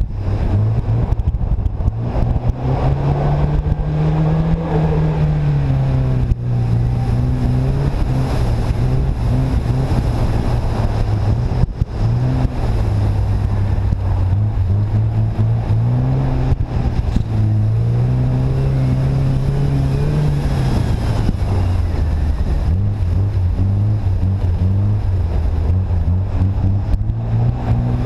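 Car engine driven hard, its pitch rising and falling over and over with the throttle, over a steady rushing noise. There are short breaks in the engine note about six and twelve seconds in.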